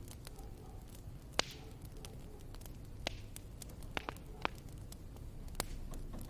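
Wood fire crackling: scattered sharp pops and snaps, the loudest about a second and a half in, over a low steady rumble.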